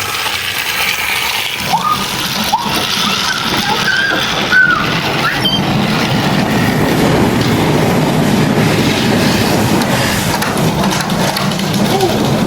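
A train running steadily, with a few short squeals in the first half.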